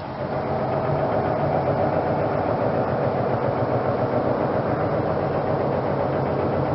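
Loud, steady droning hum made of several layered tones, swelling up just after the start and falling away near the end: an unexplained night-time noise that the recorder says sounds nothing like a train.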